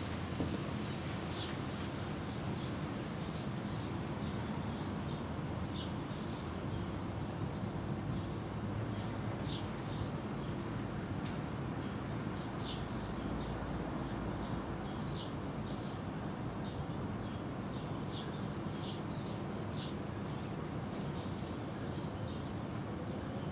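Birds chirping: many short high chirps, a few a second and irregular, over a steady background hiss.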